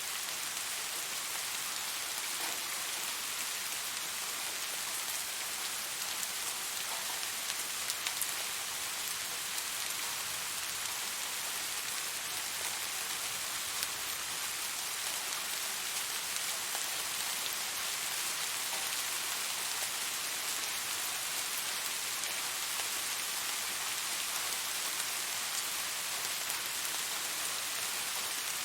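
Steady rain falling, a constant hiss of drops with scattered small taps from individual drops, a few slightly louder ones about eight and fourteen seconds in.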